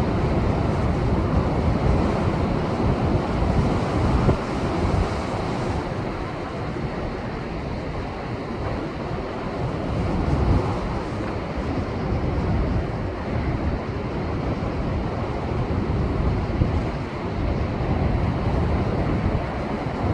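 Heavy post-typhoon surf pounding against shoreline rocks, a steady rushing roar that swells and eases as the waves come in. Wind buffets the microphone, adding a low rumble.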